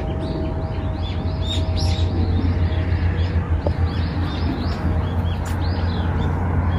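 Small birds chirping, many short quick calls one after another, over a steady low rumble.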